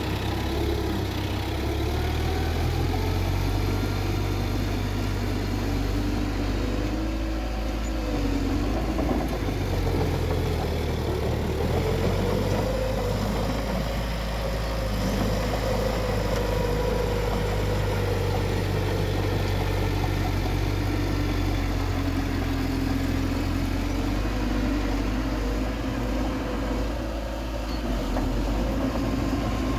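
Bulldozer's diesel engine running steadily, its pitch slowly rising and falling as it works.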